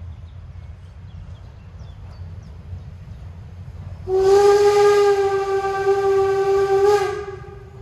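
Steam whistle of the Harz narrow-gauge steam locomotive 99 7232-4 blowing one long, steady blast of about three seconds, starting about four seconds in. A low rumble runs underneath throughout.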